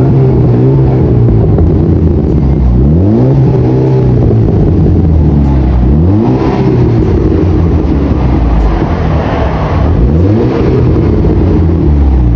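Audi A5's exhaust with twin HKS boosters, the engine revved in short blips about every three seconds, each rise falling back to a steady idle between.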